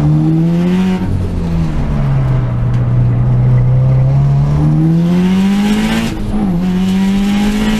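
Subaru Impreza WRX turbocharged flat-four heard from inside the cabin on a track lap: it pulls up in revs, eases off about a second in, runs low for a few seconds, then pulls hard again, with a short dip near the end that sounds like an upshift before it climbs once more.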